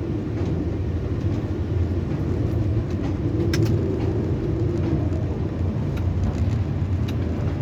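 Tower crane machinery running steadily with a low rumble and a faint hum, with a sharp click about three and a half seconds in.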